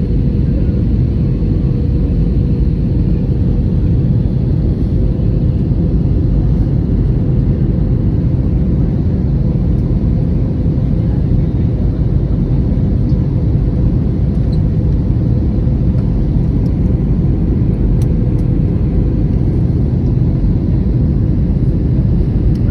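Jet airliner cabin noise: a steady, loud low rumble of engines and airflow, with a constant hum running through it.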